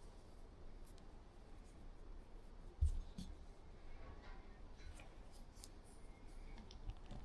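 Hands folding and pinching dough wrappers around filling to shape dumplings: faint soft rustling and light sticky clicks, with one dull thump about three seconds in.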